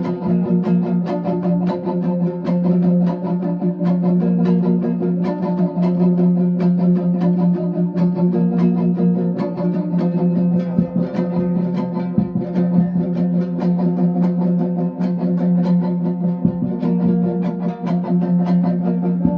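Instrumental music on a plucked string instrument: quick plucked notes over a steady low drone note.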